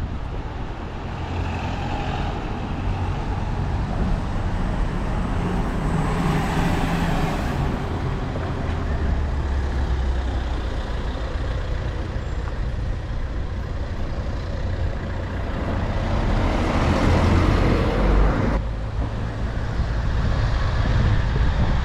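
Street noise in strong wind: a low rumble of wind on the microphone mixed with passing road traffic, swelling twice, about six and seventeen seconds in, the second swell cutting off sharply.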